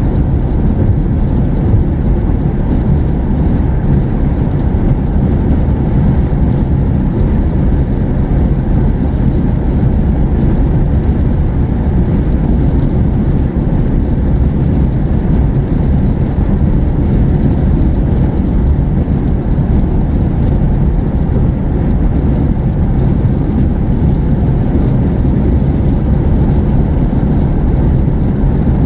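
Steady low rumble of a car driving along, tyre and engine noise heard inside the cabin.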